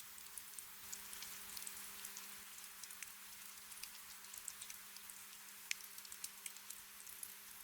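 Soft, steady hiss of light rain with many small scattered drop ticks, over a faint steady low hum.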